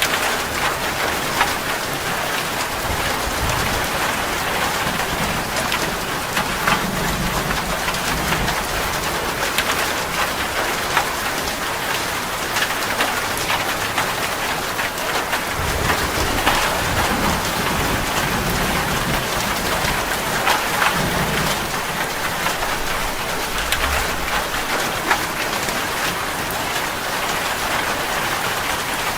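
Heavy rain falling on a metal roof: a steady hiss full of sharp drop ticks, with low thunder rumbling and fading several times.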